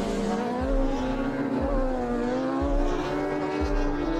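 Racing motorcycle engine heard on board at speed, its note rising slowly and steadily as the bike accelerates in one gear, over a rushing hiss. A low pulse recurs about once a second beneath it.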